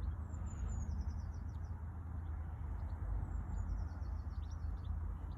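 Small birds chirping in short runs of quick, high, falling notes, twice, over a steady low rumble.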